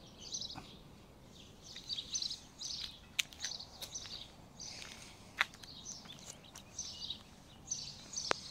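Small songbirds chirping in short, repeated high phrases, with a few sharp ticks in between.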